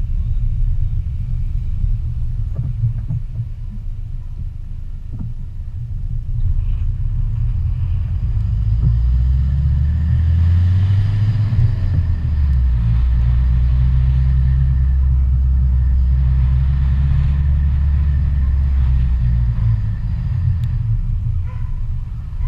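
Vehicle driving along a road, a steady low rumble of road noise. About nine seconds in the engine's drone rises and steadies, shifting pitch once, and eases off near the end.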